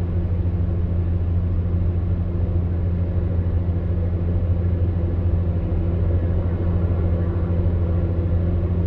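Electric fan heater running steadily: a constant low hum with a soft whirr of air.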